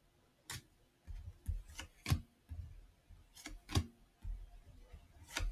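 Trading cards being handled and flipped through one at a time: light, irregular clicks and snaps of card against card, about eight in a few seconds.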